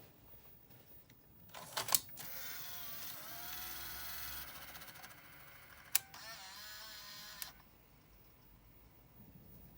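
Sony EV-A200 Video 8 deck's tape mechanism on a test run after its loose threading belt was replaced and its toothed belt tensioned. A couple of clicks are followed by a motor whirring for about five seconds, with a sharp click about midway, and then it stops suddenly.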